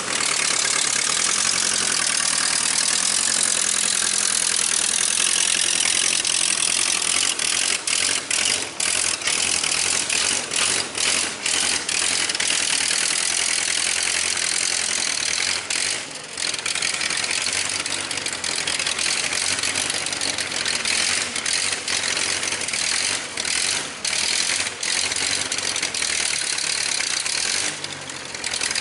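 Engine of a 1956 Case 310 tractor loader backhoe running steadily, with mechanical rattling from the machine and brief dips in loudness.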